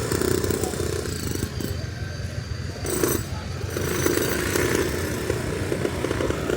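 Continuous rough low rumble of outdoor background noise, with patches of mid-pitched sound coming and going.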